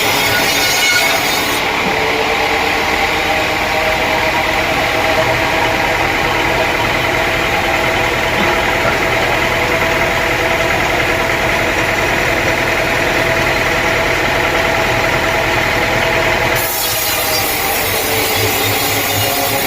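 Sawmill saw cutting through a teak log: a steady machine drone with the rasp of the blade running through the wood. The sound changes character abruptly about a second and a half in and again near the end.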